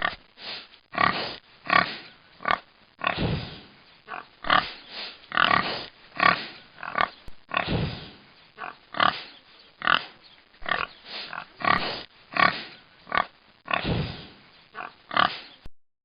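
An animal making a long series of short calls, about two a second, that stops suddenly near the end.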